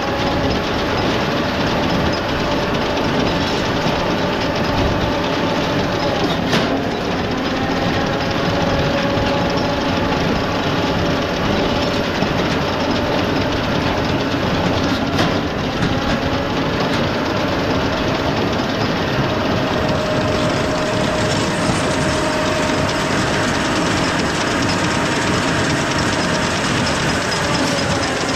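International 1066 tractor's six-cylinder diesel engine running steadily under load, pulling a New Holland Hayliner small square baler that clatters as it works. A few sharp clacks sound over it.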